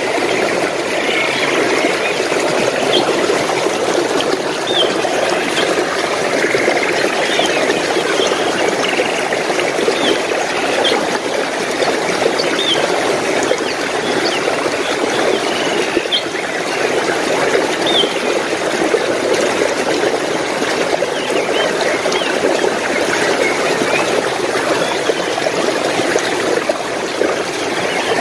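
A stream of water running and trickling steadily. Over it a small bird gives short high chirps every second or two, fewer and fainter later on.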